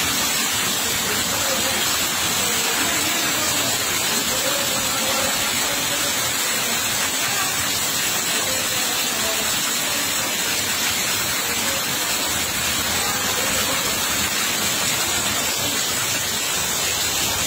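Heavy rain pouring down onto wet concrete and running water, a steady, unbroken hiss.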